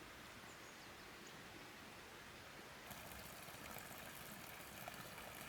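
Faint, steady background hiss, joined about three seconds in by faint scattered ticking and crackling.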